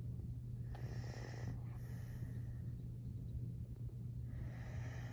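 Heavy rain heard from indoors through a closed window: a steady low rumble, with three short hissing surges, one about a second in, one around two seconds in and one near the end.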